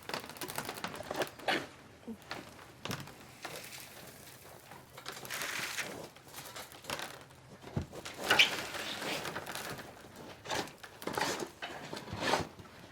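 Cattle at metal head-through feeders: irregular knocks, clatter and rustling as they eat, with one sharper knock a little past the middle.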